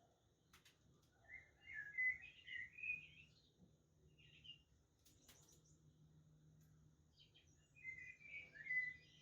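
Budgerigars chattering in short bursts of warbling chirps: one bout starting about a second in, a brief chirp mid-way, and another bout near the end.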